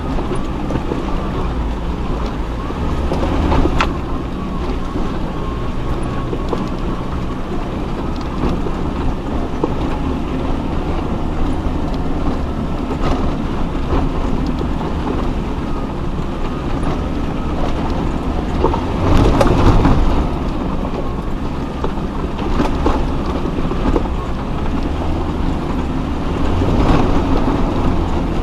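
Off-road vehicle engine running at low speed as it crawls over a rough, rocky track, with occasional knocks and bumps. It is loudest briefly about two-thirds of the way through.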